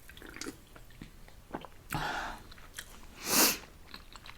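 Close-up eating sounds of spicy instant noodles: soft chewing and small mouth clicks. There is a short breathy sound about two seconds in and a louder, short breathy rush about three and a half seconds in.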